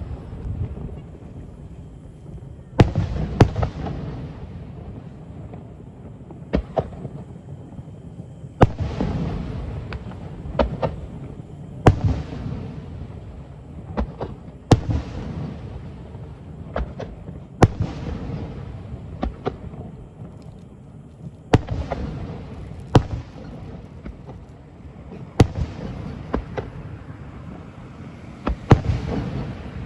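Fireworks shells bursting, a loud bang every two to three seconds, each followed by a long fading echo, with smaller sharp pops in between.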